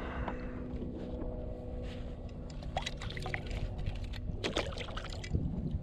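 Water splashing and trickling around a kayak, with a few sharper splashes and knocks about three and four and a half seconds in, over a steady low hum.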